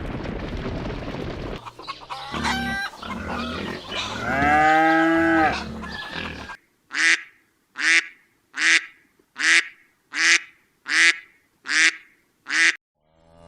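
A farm bird calling: a few mixed calls with one long drawn call about four seconds in, then a run of nine short, evenly spaced calls, about one every 0.8 seconds.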